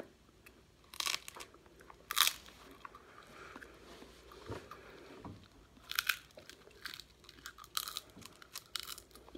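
Small candy ice-cream cones being bitten and chewed close to the microphone: crisp crunches about a second and two seconds in, then a run of them over the last three seconds.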